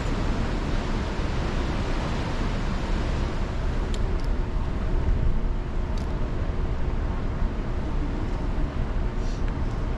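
Steady low rumble and rush of a cruise ship under way, mixed with wind on the microphone, with a few faint ticks.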